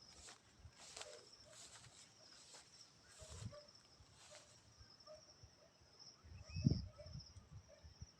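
Quiet outdoor ambience with a steady, high-pitched insect trill running throughout and faint scattered clicks. A brief low thump comes about two-thirds of the way in.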